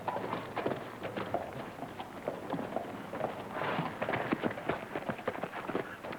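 Horses' hooves clopping at a walk or trot, many irregular hoofbeats overlapping as several horses move along, a little busier about three and a half seconds in.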